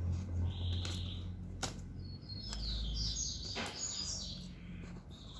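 Small birds chirping in the background: a short call about half a second in, then a run of quick chirps in the middle. A couple of faint clicks from hands handling the foam flower, over a steady low hum.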